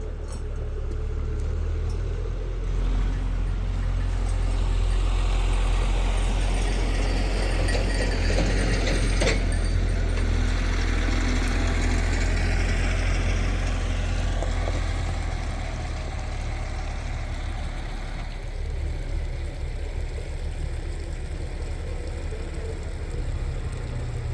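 A motor vehicle's engine running with a steady low rumble. It grows louder over the first few seconds, holds, then eases off in the second half, with a single sharp click about nine seconds in.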